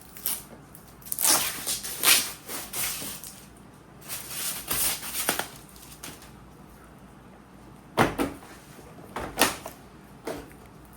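Handling noises: several rough scraping or rustling bursts, then a few sharp knocks near the end.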